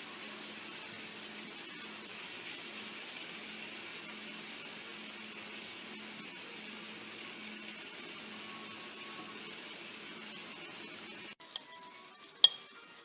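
Marinated chicken pieces frying in cooking oil in a pan over low heat, a steady sizzle that cuts off suddenly about eleven seconds in. A few sharp clinks of a utensil on the pan follow near the end.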